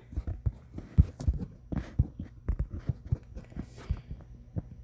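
Irregular light clicks and taps, several a second, some with a dull low knock.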